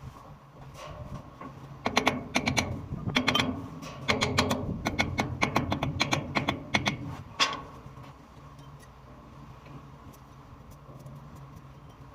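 A quick run of sharp clicks and knocks, starting about two seconds in and ending with one louder knock, over a steady low hum.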